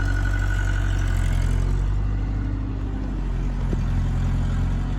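Heavy diesel engine running steadily at a low, even pitch, with a thin high whine over it that fades out about a second and a half in.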